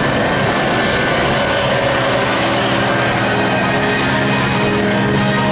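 Loud, steady roar of an aircraft passing over. From about a second and a half in, music with held notes comes in under it.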